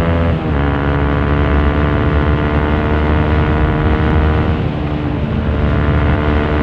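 Honda CRF150L's single-cylinder four-stroke engine running through an aftermarket Norifumi Torc exhaust while riding. The pitch drops sharply about half a second in, as at a gear change, then climbs slowly as the bike pulls. Heard from inside the rider's helmet.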